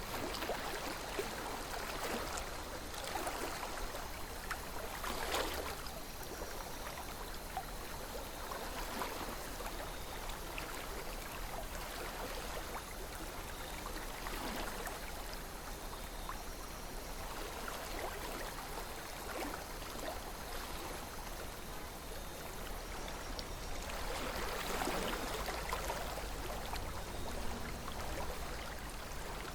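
River water flowing steadily, with a few swells of louder rushing and burbling, one about five seconds in and another near the end.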